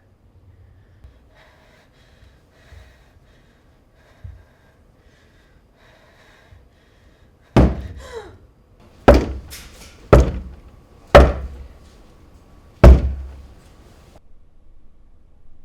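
Five loud, heavy thumps, about a second to a second and a half apart, each with a short ringing tail.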